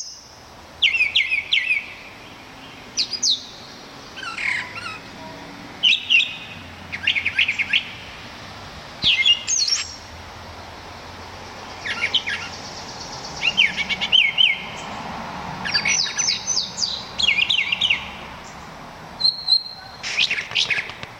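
Brown thrasher singing a long series of short, varied phrases with brief pauses between them, like a hoarse mockingbird.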